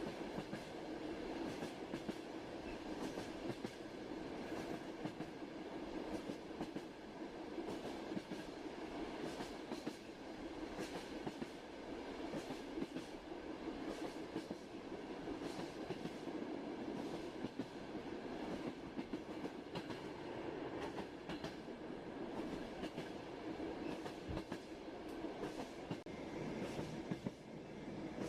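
Passenger train running on the rails: a steady rumble with the clickety-clack of the wheels, many short irregular clicks over it.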